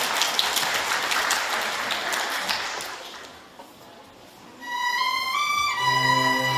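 Audience applause that fades away after about three seconds, then, about a second later, a children's string ensemble of violins, cellos and double bass starts playing a slow melody of held notes.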